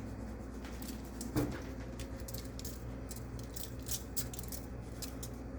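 Pepper shaken from a pepper shaker over chicken in a baking dish: a run of light, irregular rattling clicks, with one soft knock about a second and a half in.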